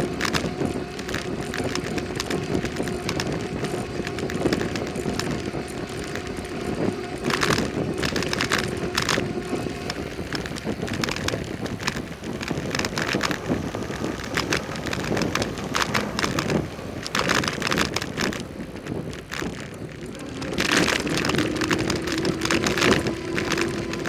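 Bicycle ride: wind rushing over the microphone with tyre and road noise, and several brief louder patches. A steady hum fades out about ten seconds in and comes back near the end, rising slightly in pitch.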